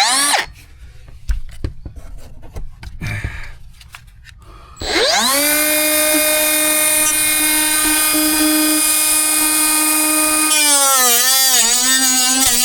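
Handheld electric power tool cutting into the water-damaged camper floor: the motor spins up with a steady whine about five seconds in, then its pitch dips and wavers repeatedly near the end as it bogs under load in the cut.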